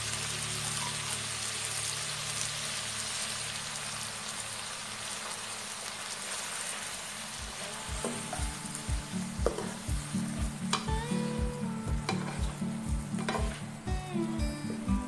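Tofu and long beans sizzling as they stir-fry in a wok, scraped and turned with a spatula. About halfway through, background music with a steady beat comes in over the sizzling.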